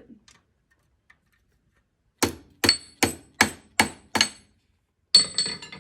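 Hand hammer striking a steel leaf set in a cupping swage in the vise. About two seconds in come six evenly spaced blows, about two and a half a second, each with a short metallic ring, then a quick cluster of strikes near the end.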